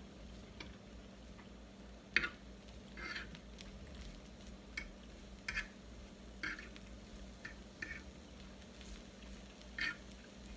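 Chicken cooking on a grill: short, scattered crackling bursts, about eight of them, over a low steady hum.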